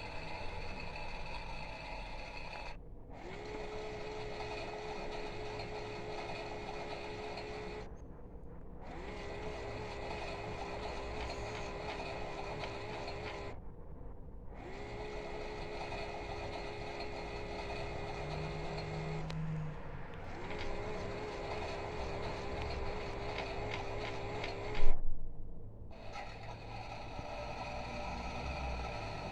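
A children's toy Miele washing machine's small motor whirring as the drum turns, in runs of about five seconds. Each run starts with a short rise in pitch, and brief pauses fall between them. One loud knock comes near the end.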